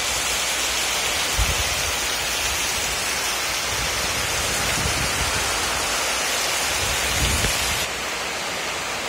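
Heavy rain falling steadily, with strong wind gusting in about three short low rumbles. The rain eases slightly near the end.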